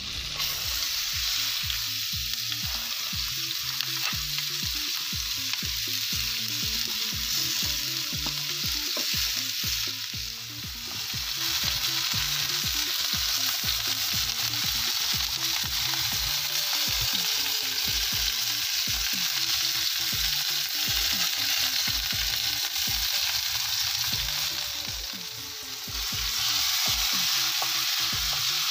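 Chopped onion, bell pepper and tomatoes sizzling as they fry in butter in a steel frying pan over a wood fire, stirred with a spatula. The sizzle dips briefly twice.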